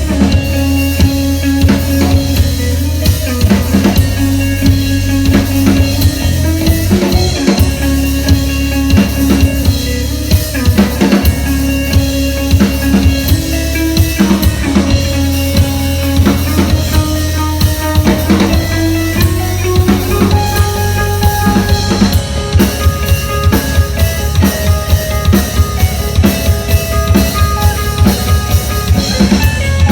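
A rock band playing live: a driving drum kit with bass drum and snare on a steady beat under sustained bass and guitar.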